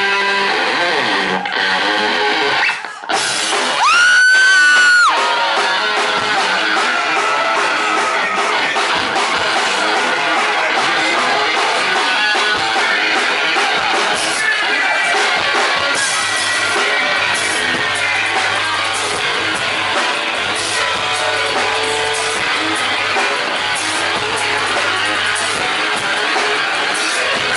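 Live rock music from an audience recording of a concert: a full band led by electric guitar. After a brief break, a loud held high note rings about four seconds in, then the band plays on.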